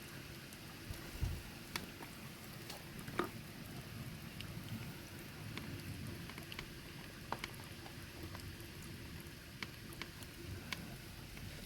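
Steady thunderstorm rain falling, a continuous hiss with scattered sharp ticks of individual drops striking close by.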